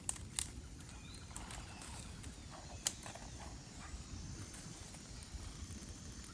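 Steady low wind rumble on the microphone, with three sharp knocks: two close together at the start and the loudest about three seconds in.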